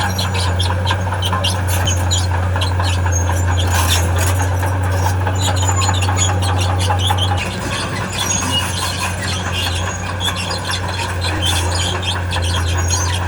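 Diesel engine of a tracked earthmoving machine running steadily, with high squealing and clattering from its steel crawler tracks as it moves; the engine note eases a little about seven seconds in.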